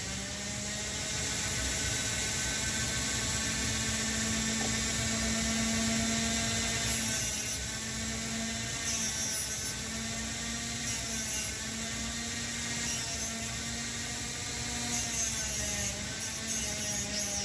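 A small electric motor whirring at a steady pitch, with short bursts of high hiss every second or two in the later part.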